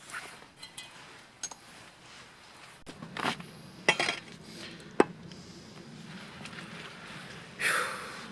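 Dishes and metal utensils clinking and knocking, with a few sharp clanks about three, four and five seconds in, while food is being served out.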